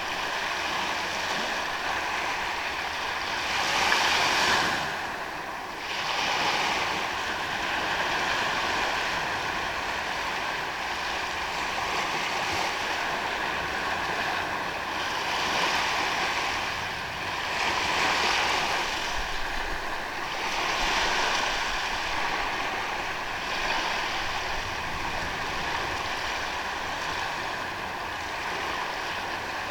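Ocean waves breaking and washing up a sandy beach, the surf swelling and falling back every few seconds, with the loudest surge about four seconds in.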